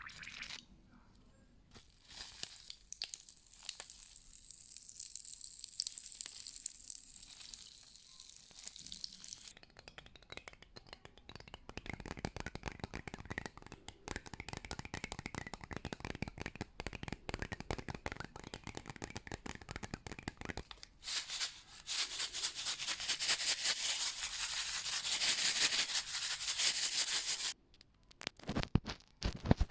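A run of close-miked ASMR trigger sounds that change every several seconds: a soft hiss, then a long stretch of dense fine crackling like crinkling or tearing material, then brighter crackling, and a few sharp clicks near the end.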